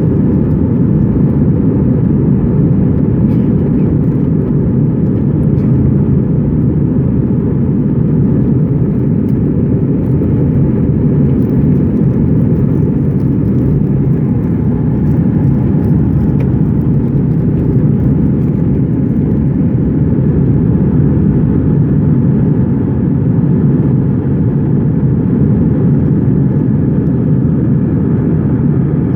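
Airplane cabin noise in flight: the engines and rushing air make a steady, loud low rumble that does not change.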